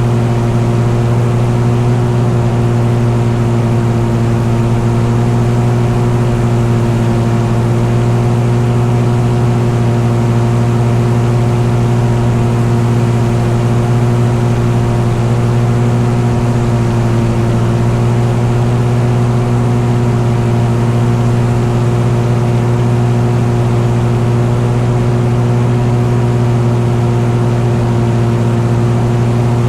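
An engine drones at a constant speed, a steady low hum that holds the same pitch throughout.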